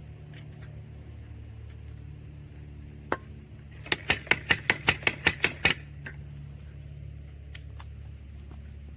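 A metal ratchet mechanism clicking: one click, then, about a second later, a quick even run of about a dozen clicks over two seconds, about six a second. A steady low hum runs underneath.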